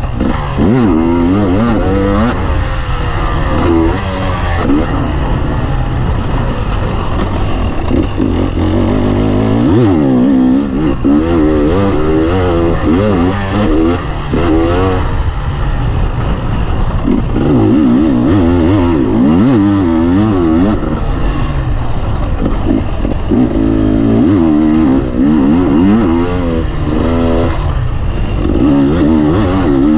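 Off-road motorcycle engine revving hard and easing off again and again as the bike accelerates, shifts and brakes around a dirt track, heard from on board the bike.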